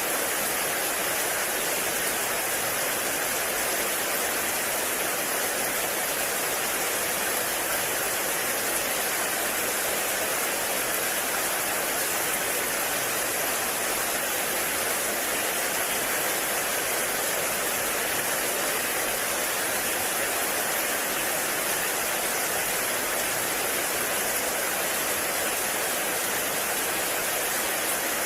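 Heavy rain falling steadily on a forest, an even hiss with no single drops or thunder standing out.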